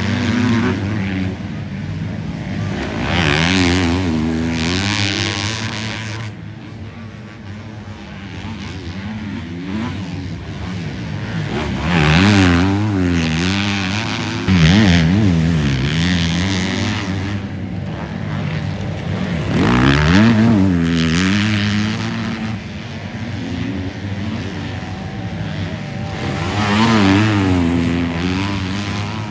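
Motocross bikes racing on a dirt track, engines revving up and down through the corners and jumps as they go by, swelling louder as bikes pass several times.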